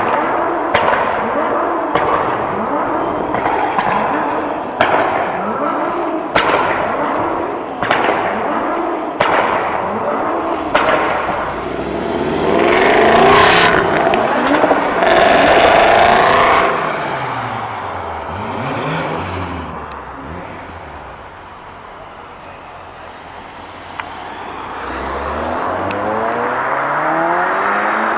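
Performance car engines revving hard as cars drive off. A run of quick revs, each with a sharp crack, comes roughly every second and a half. A louder, rougher stretch passes midway, then it goes quieter before another engine revs up near the end.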